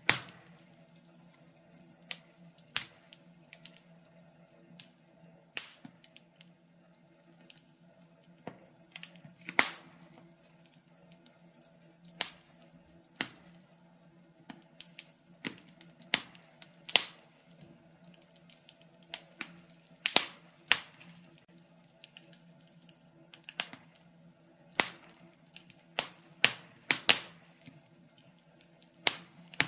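Wood fire crackling in a fireplace: irregular sharp pops and snaps, some much louder than the rest, over a faint steady low hum.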